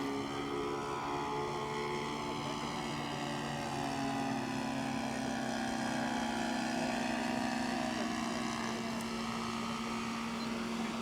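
Model-aircraft Saito FG-11 four-stroke petrol engine of a radio-controlled seaplane, running steadily at a constant throttle, its pitch drifting slowly up and down.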